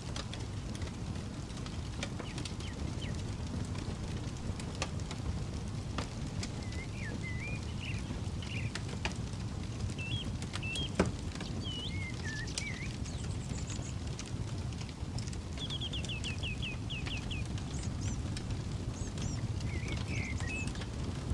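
Outdoor campfire crackling, with scattered sharp pops and one loud pop about halfway, over a steady low rumble. Songbirds chirp and whistle throughout, including one fast run of repeated notes a little after two-thirds of the way.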